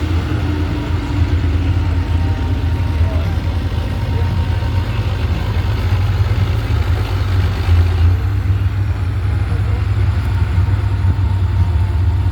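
A pulling truck's engine running with a loud, steady low rumble that holds level without any clear rise or fall in pitch.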